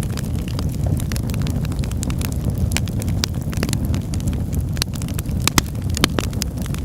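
Wood fire burning in a fireplace: a steady low rumble of flames with frequent sharp crackles and pops, a couple of louder pops about five and a half and six seconds in.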